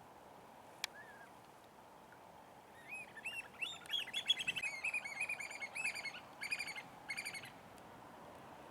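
Black oystercatchers piping: a rapid run of loud, shrill whistled calls in several quick bursts, after a few faint single calls and a sharp click about a second in.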